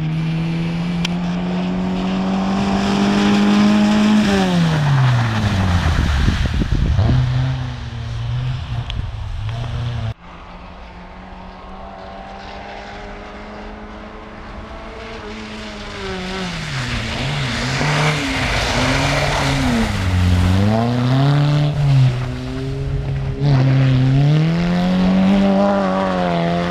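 Rally car's engine revving hard, its note climbing and then dropping steeply. After an abrupt cut about ten seconds in, another run follows with the engine note rising and dipping repeatedly as the throttle is worked.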